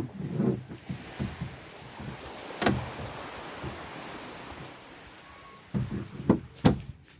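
Irregular knocks and thuds, a few sharp, strong ones about two and a half seconds in and again near the end, with a steady hiss between them.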